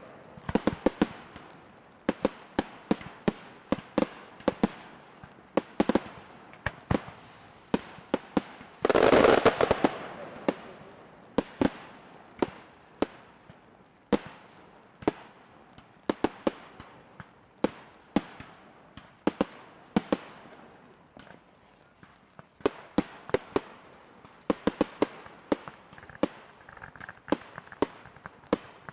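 Firework shells bursting in a long string of sharp bangs, one every half second or so. About nine seconds in comes a louder, denser burst that fades out over a couple of seconds.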